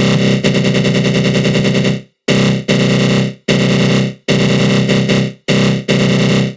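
Synthesized 'attack growl' sound effect: a buzzy, low synth growl put through a flanger. It holds for about two seconds, then breaks into a run of short stabs with brief gaps between them.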